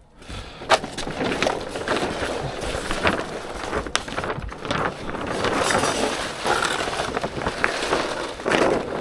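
Heavy polythene damp-proof sheet (visqueen) crinkling and rustling as it is handled and spread out, with sharp crackles throughout.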